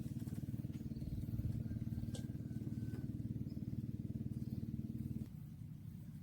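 A small engine running steadily, then dropping to a quieter, lower hum about five seconds in, as if throttled back.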